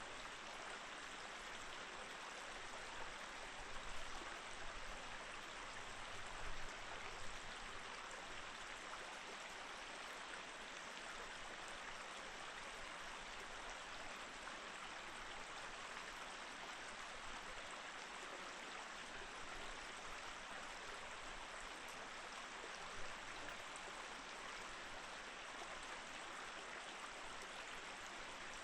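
Small mountain stream running steadily over rocks, a constant rush and babble of water with a few brief louder splashes early on and once near the end.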